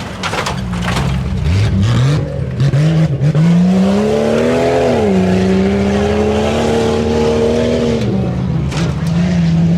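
A four-wheel-drive tuff truck's engine revving hard on the course. The pitch climbs for a few seconds, falls back and holds, then drops again near the end. Sharp knocks are heard in the first few seconds and again near the end.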